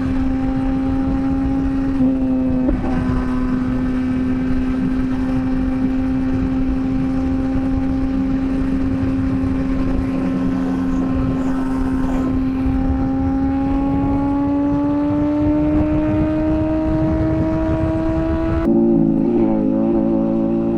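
Kawasaki ZX-6R's inline-four engine running at steady revs under way, over wind and road noise. Its pitch rises gradually over the last several seconds as the bike picks up speed, then the sound changes abruptly near the end.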